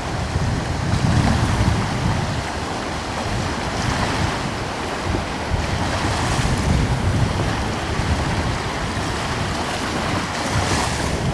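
Gentle ocean waves washing in, swelling and ebbing every few seconds, with a light coastal breeze rumbling on the microphone.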